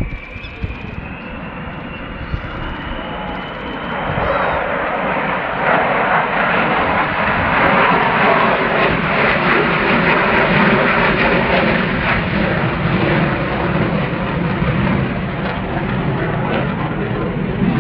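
Avro Vulcan XH558's four Rolls-Royce Olympus jet engines during a flypast. A thin whine rises in pitch over the first few seconds, then loud, steady jet engine noise builds about four seconds in and holds.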